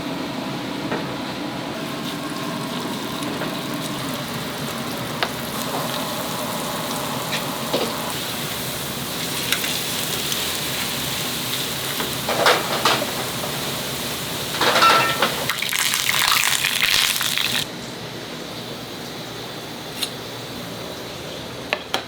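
Restaurant kitchen sounds: a steady watery hiss. From about the middle it gets busier, with scattered clinks and clatters, then cuts off suddenly a few seconds before the end, leaving a few lone clicks.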